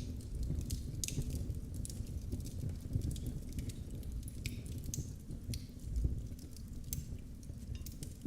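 Wood fire crackling in a fireplace: irregular sharp pops and snaps over the low, steady rumble of the flames.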